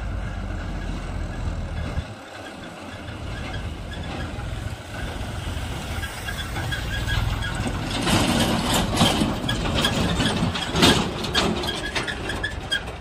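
Diesel tractor engine running steadily. About eight seconds in, loud rattling and knocking sets in over it and goes on to the end.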